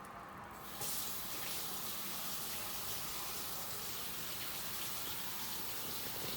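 Kitchen faucet turned on under a second in and left running in a steady rush of water.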